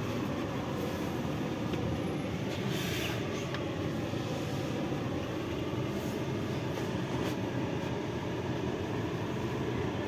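Steady running rumble of an 81-740.1 (Rusich) metro train heard from inside the car, with a few faint clicks.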